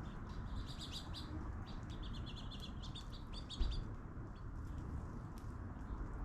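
Birds chirping in quick runs of short high notes through the first half or so, with a single low thump about three and a half seconds in.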